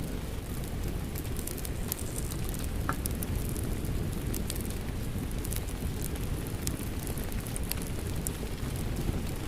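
Wood fire crackling with scattered sharp pops over a steady rush of rain.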